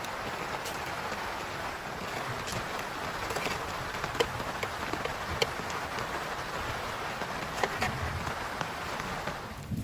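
Heavy rain falling as a steady dense hiss, with scattered sharper taps of single drops hitting a surface.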